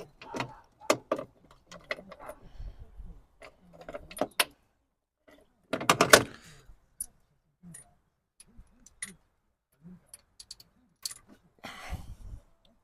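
Metal tools and engine parts clinking and rattling as they are handled, in scattered sharp clicks with a louder clatter about six seconds in and another near the end.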